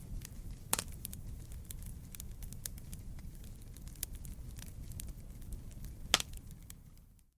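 Campfire of burning wood crackling: a steady low rumble of flame with scattered small pops, and two sharper pops, one just under a second in and one about six seconds in.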